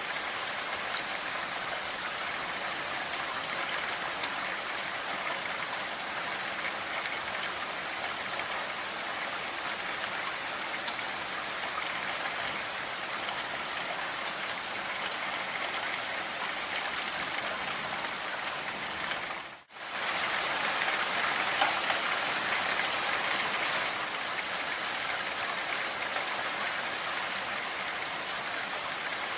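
Steady rain falling, an even hiss of many drops. About two-thirds of the way through it drops out for a split second, then comes back slightly louder for a few seconds.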